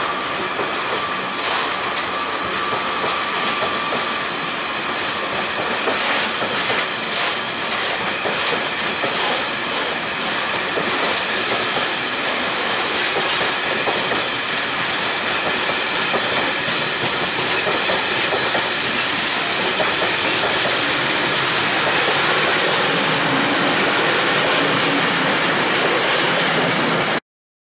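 Loaded ballast wagons of a long engineering freight train rolling steadily past, wheels clattering over the rail joints with a run of sharper clicks. A thin high squeal fades after the first few seconds. The sound cuts off suddenly near the end.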